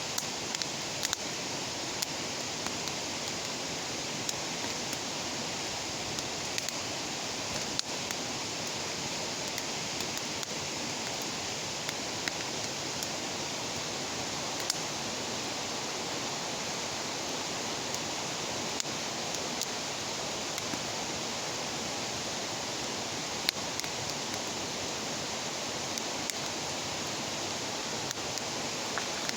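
Wood bonfire burning with a steady hiss and scattered sharp crackles and pops.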